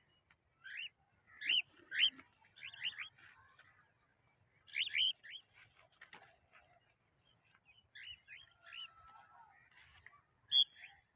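Cockatiels calling: short, rising whistled chirps repeated in scattered runs of two or three.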